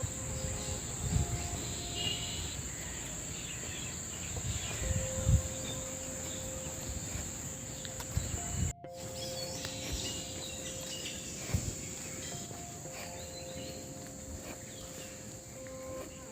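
Outdoor ambience of steady, high-pitched insect chirring from crickets, over a low rumble with a few thumps on the microphone. Soft background music with long held notes runs underneath, and there is an abrupt cut about halfway through.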